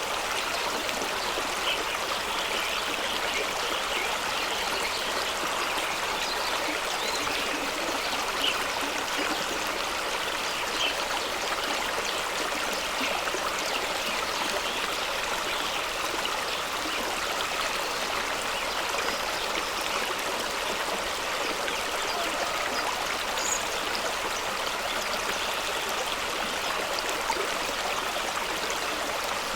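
Fast-running stream flowing over rocks: a steady rush of water with small splashes and gurgles scattered through it.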